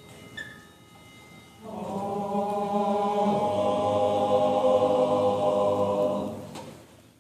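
A group of voices singing one long held chord together, coming in about two seconds in and fading out near the end.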